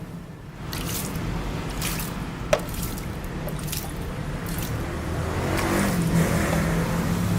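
Water splashing and dripping as the Coca-Cola and dish-soap mixture is rinsed off a rusty motorcycle exhaust, with a few sharp splashes.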